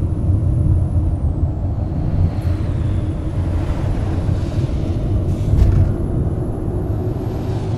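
Scania K420 double-decker coach on the move: a steady, loud low rumble of engine and road, with a short sharp knock about five and a half seconds in.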